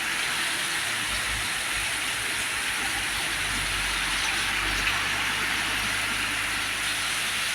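Heavy rain pouring down in a steady hiss, with a low vehicle rumble underneath.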